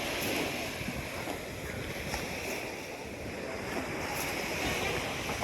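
Sea waves breaking and washing in, in swells, with wind buffeting the microphone.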